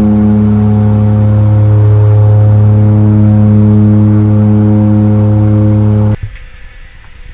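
An engine running at a steady speed, a loud low hum that holds one pitch and cuts off abruptly about six seconds in.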